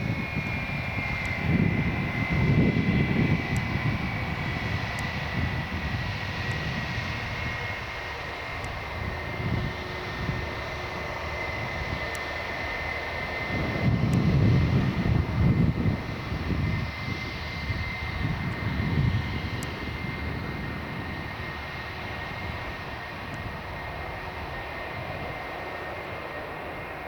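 Jet airliner engines running, a steady high whine sinking slowly in pitch over a low rumble that swells twice, at about two seconds in and again at about fifteen seconds.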